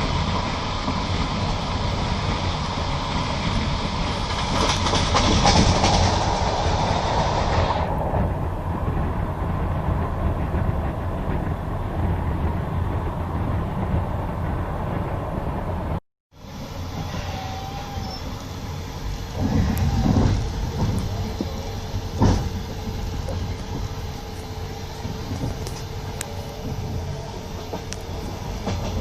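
Passenger train running at speed, heard from inside the carriage: steady rolling noise with the wheels knocking over rail joints and a few louder clunks. The sound cuts out completely for a moment a little past halfway.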